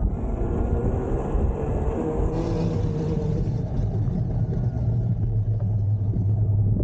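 Riding noise from an e-bike moving over rough dirt: a continuous low rumble of wind buffeting the microphone and tyres on the ground, with a steady low hum setting in about halfway through.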